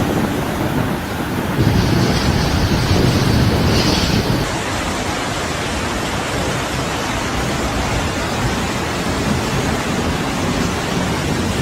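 Steady rushing of floodwater with wind buffeting the microphone, swelling louder for a couple of seconds about two seconds in.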